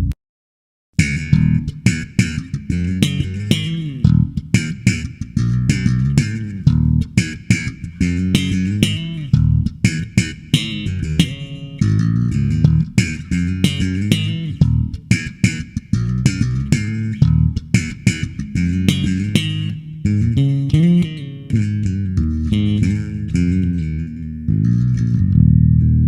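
Felton electric bass played solo, a busy run of picked notes with sharp, bright attacks. It starts about a second in, after a short silence.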